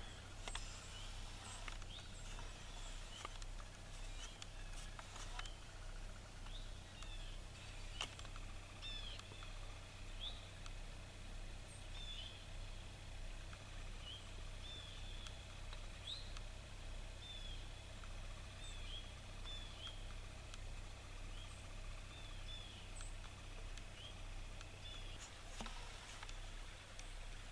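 Small birds calling: many short, separate chirps scattered throughout, over a faint steady low hum.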